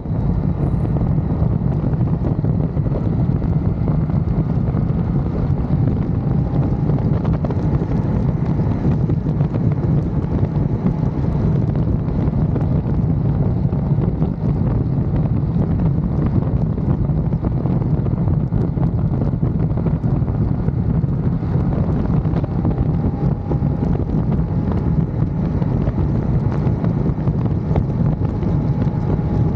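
Steady wind rushing over the microphone of a riding motorcycle, with the engine's faint hum underneath that drifts slowly in pitch.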